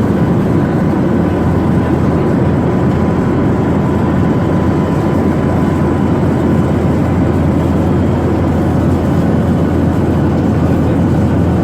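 Steady cabin noise of a Boeing 737-800 in flight: the CFM56 engines and rushing air heard from a window seat, a constant low, even noise with a faint steady hum above it.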